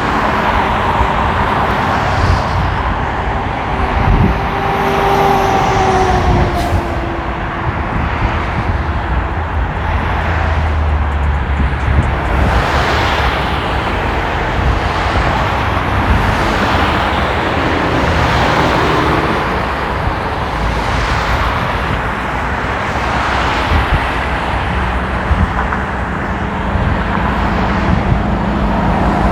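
Road traffic heard from a moving electric scooter on a highway in light drizzle: a steady rush of wind and tyre noise, with cars and trucks passing.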